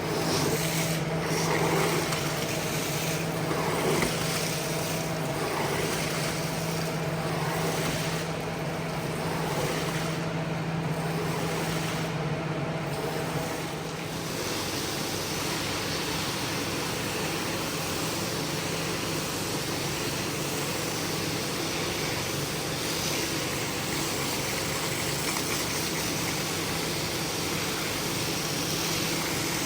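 A motor-driven cleaning machine running steadily. A low hum in it drops out about halfway through while the machine noise carries on.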